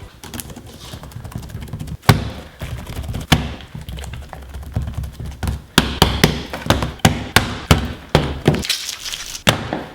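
A series of sharp knocks and cracks, a few at first and then several a second in the second half.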